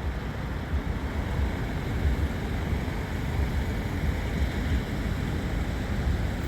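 A steady low rumble of road traffic held at the crossing, with uneven wind buffeting on the microphone.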